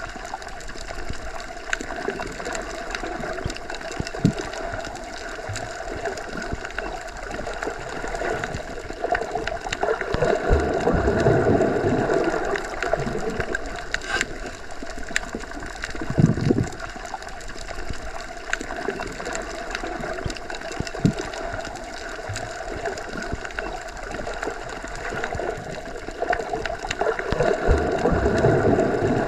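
Underwater ambience as heard submerged in a pool or lake: a steady muffled rushing hum with slow swells and a few dull low thumps, plus faint scattered clicks.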